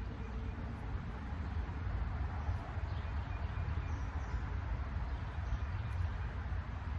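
Small ATV engine running at a steady idle, a low even rumble with a fast pulse, which the owner reads as getting too much fuel.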